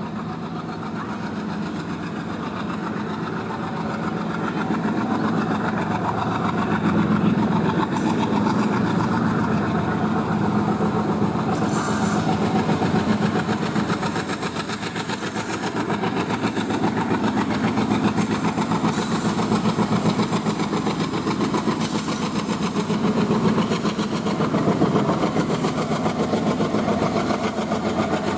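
Long goods train of stone wagons running past on the rails, growing louder over the first several seconds and then holding steady, with a single sharp click about eight seconds in.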